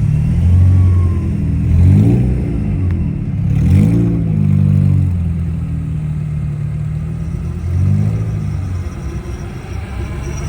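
Car engine running with a low, steady note, revving up and easing off three times: about two seconds in, about four seconds in, and near eight seconds.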